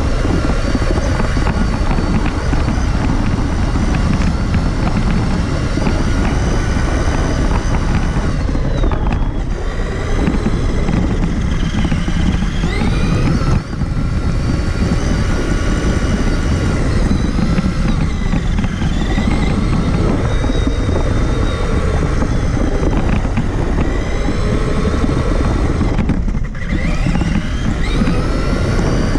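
Traxxas Summit RC truck's electric motor and geared drivetrain whining, rising and falling in pitch as the throttle is worked, over a constant rumble from the drivetrain and tyres. The whine drops away briefly a few times when the throttle is let off, then climbs again.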